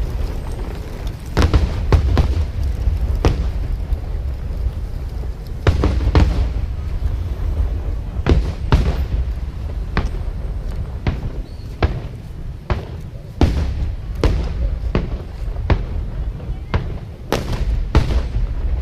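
Aerial fireworks bursting: about twenty sharp bangs and cracks at uneven intervals over a steady low rumble of booms.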